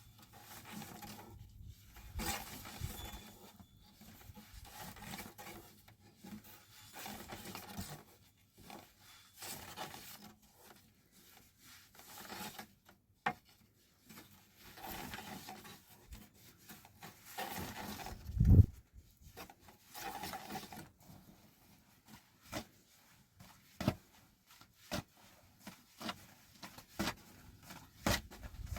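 A series of rubbing, scraping strokes on wood, each about a second long with short pauses between them, and one heavier thump about eighteen seconds in.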